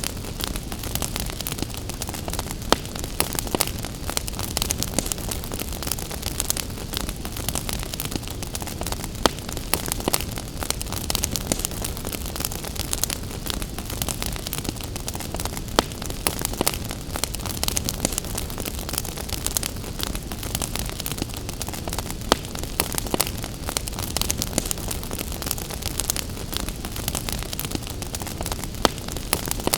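Wood fire crackling, with frequent sharp pops and snaps scattered irregularly, over a steady hiss of rain.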